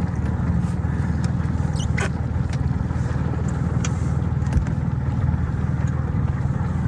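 Dinghy outboard motor running steadily at low speed, an even low drone, with a few light clicks and taps over it.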